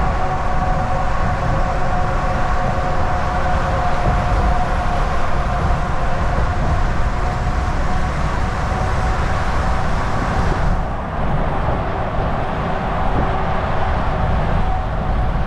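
Volvo VNL 760 semi truck cruising on the highway: a steady deep engine and road rumble with a faint steady whine over it. About two-thirds of the way through, the higher hiss drops away suddenly while the rumble carries on.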